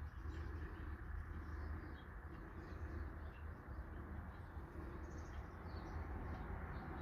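Wild birds chirping: many short, high calls scattered throughout, over a steady low background rumble.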